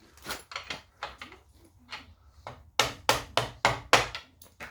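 A metal tool tapping and knocking on the RB20DET engine at its rear main seal: light, scattered taps at first, then about eight hard strikes at roughly four a second in the second half.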